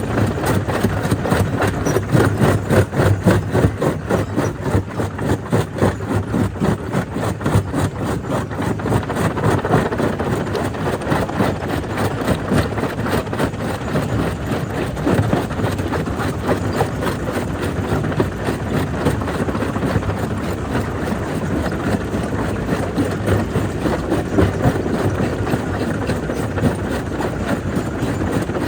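Jaw crusher running steadily as it crushes black stone, a loud mechanical rumble with a fast, even pulse.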